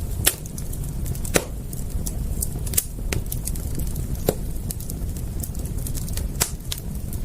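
Wood fire crackling: irregular sharp pops and snaps, about five louder ones among many small ticks, over a low steady rumble.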